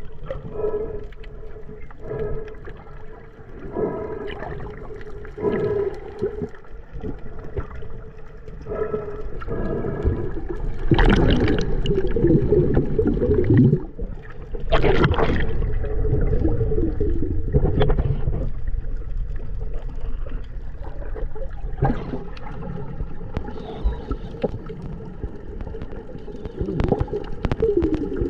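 Muffled underwater sound of snorkeling in the sea: water sloshing and gurgling around the camera with irregular surges, the loudest between about ten and fourteen seconds in, over a steady low hum.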